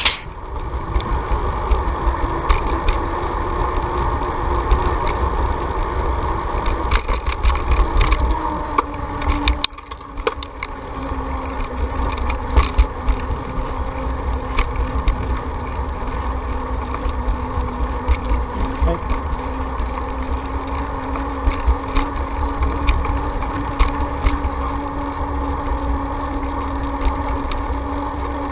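Steady engine-like hum under heavy wind rumble on the microphone while riding. The hum's pitch drops a little after a brief lull about ten seconds in.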